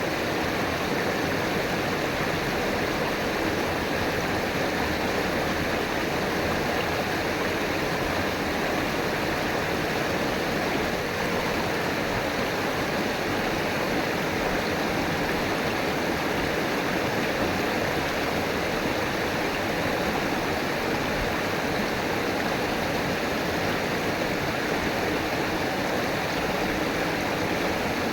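A river flowing over rocks: a steady, even rush and gurgle of water.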